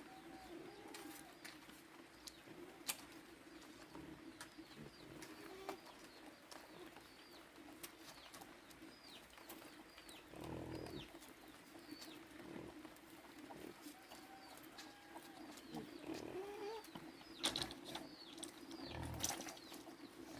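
Faint birdsong: short, high, falling chirps repeating over a steady low hum, with a few scattered knocks and two longer, lower calls about halfway and near the end.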